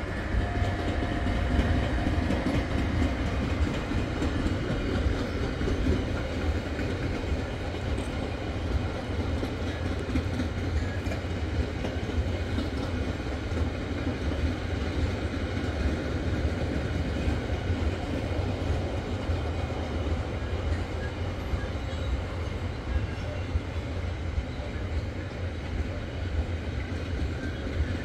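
Freight train of car-transporter wagons loaded with vans rolling past with a steady rumble.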